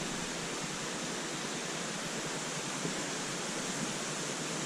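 Steady rushing hiss of water falling and running somewhere in the cave.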